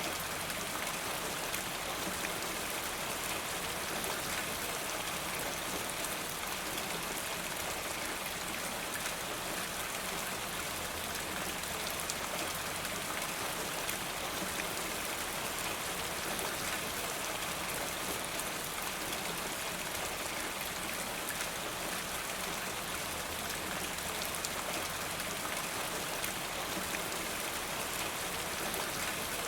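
Steady rain falling on a rain gutter: an even hiss sprinkled with many small drop ticks.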